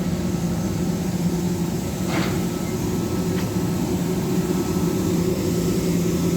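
Steady low industrial machinery hum from a nearby factory still in production, a constant drone with two held tones.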